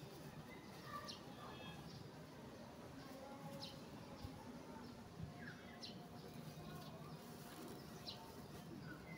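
Faint bird calls: a short, high chirp repeating about every two seconds, with other soft chirps in between, over a low background hum.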